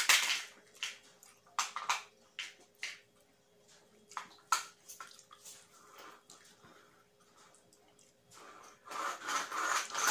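Close-up mouth sounds of someone eating rice and curry by hand: wet chewing, lip smacks and clicks coming irregularly, with a sharp smack right at the start and a denser spell of chewing near the end.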